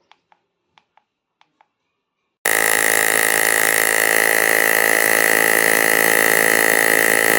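A few faint clicks, then about two and a half seconds in a loud, steady mechanical buzz starts suddenly, like a small electric motor running.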